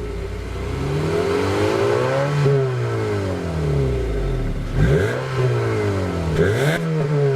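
2012 Honda CR-V EX-L's 2.4-litre four-cylinder engine being revved while parked: one slow climb and fall in revs, then two quick blips of the throttle.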